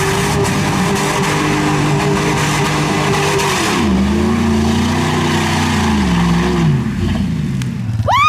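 Mud truck's engine running hard at high revs, its pitch dropping about four seconds in and again near the end as it comes off the throttle.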